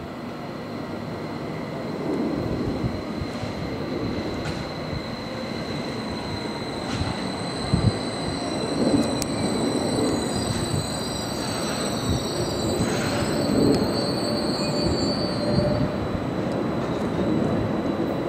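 SBB RABe 511 Stadler KISS double-deck electric multiple unit running in along the platform and slowing to a stop, with a steady high whine over its rumble and a few sharp knocks about halfway through.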